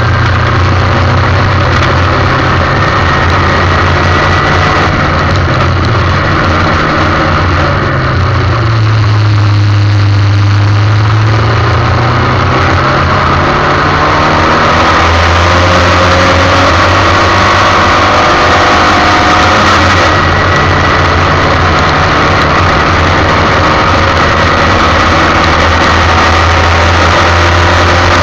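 Formula 1600 single-seater race car engine running hard under a steady rushing hiss. The revs fall off about a third of the way in, then climb again in a long rise.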